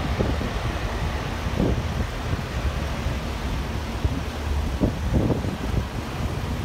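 Wind buffeting the microphone: a low, uneven rumble with gusts.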